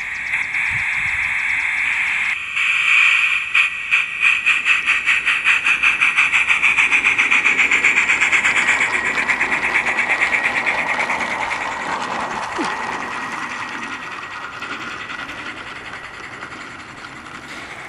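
Sound card of a radio-controlled Gauge 1 J94 model steam locomotive playing steam effects: a steady hiss, then exhaust chuffs that quicken as the locomotive gathers speed, blurring together and fading away near the end.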